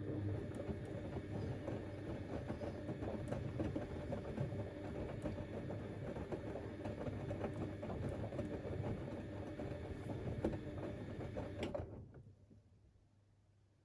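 Siemens Extraklasse XLs 140 A front-loading washing machine in its wash cycle: the motor turns the drum and the wet laundry tumbles for about twelve seconds, then the drum comes to rest about twelve seconds in.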